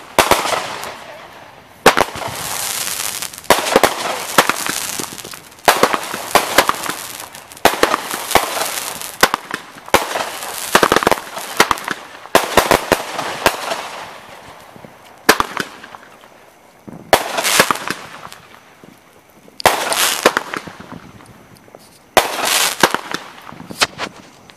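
Fireworks going off in quick succession, a sharp bang about every two seconds, each followed by a hissing, crackling burst that dies away.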